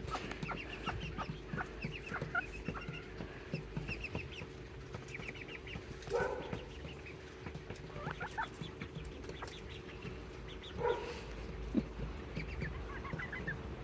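Serama bantam chickens clucking: many short, soft clucks throughout, with louder calls about six seconds in and again near eleven seconds.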